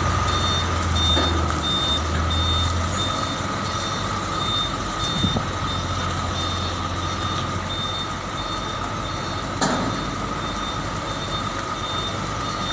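Truck's reversing alarm beeping steadily, about two high beeps a second, over the truck's diesel engine running; the engine rumble falls away about three seconds in, and there are a couple of short knocks.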